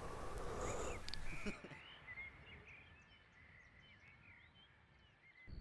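A noisy hiss that cuts off about a second and a half in, leaving faint birds chirping in the distance with many short, quick calls.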